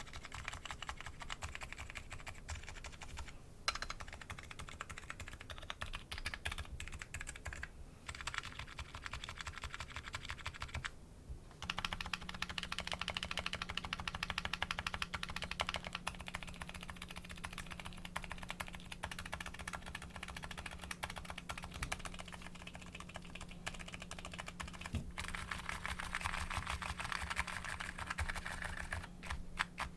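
Continuous fast typing on a Nuxros Kraze custom keyboard fitted with MetaKeebs MetaPulse electro-capacitive switches, the keystrokes coming in a dense stream with a few brief pauses. A low steady hum comes in about twelve seconds in.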